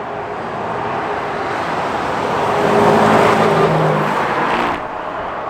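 A lorry passing at road speed on a dual carriageway: tyre noise and diesel engine hum build to a peak about three seconds in, then cut off suddenly near the end.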